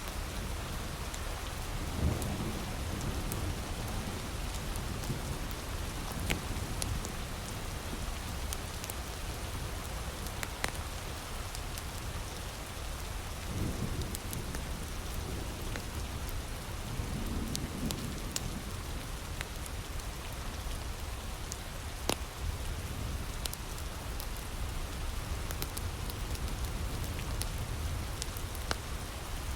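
Steady heavy rain with a wood fire crackling and popping in sharp, scattered snaps. A few low rumbles swell and fade: about two seconds in, around the middle, and again a little later.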